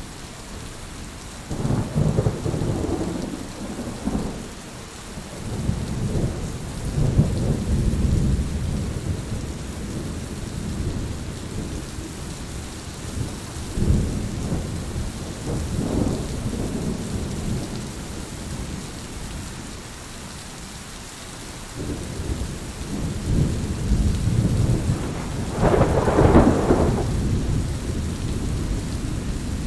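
Steady rain with rolling thunder: several low rumbles swell and fade over the rain, the loudest and sharpest crack coming near the end.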